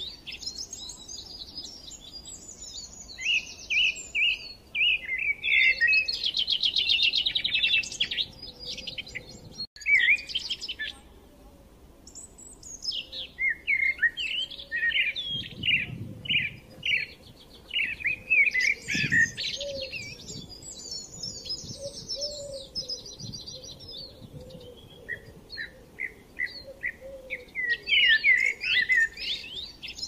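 Birds chirping and twittering in bursts of quick trills and short high calls, with brief lulls between them.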